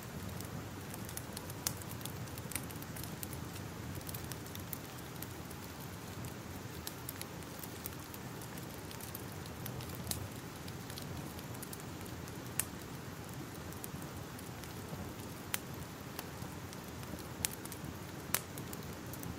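Crackling fire: a steady hiss with sharp pops at irregular intervals.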